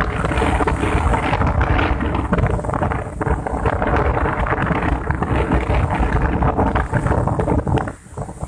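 Strong sea wind buffeting the microphone in heavy gusts, over the rush of rough sea; it eases briefly near the end.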